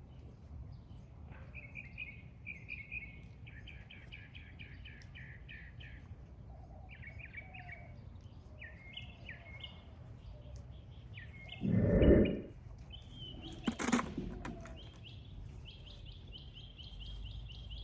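A small songbird singing in quick runs of short, repeated chirps, phrase after phrase. About twelve seconds in there is a loud low thump, and a sharp click a couple of seconds later.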